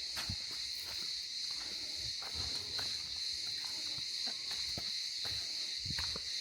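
A steady, high-pitched chorus of cicadas chirring, with irregular footsteps underneath.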